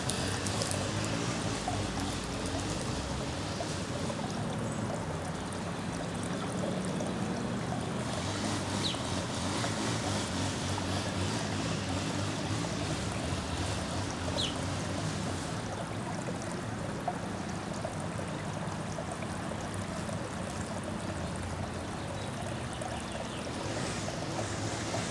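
Steady outdoor rushing noise, with two brief high chirps about a third and just over halfway through.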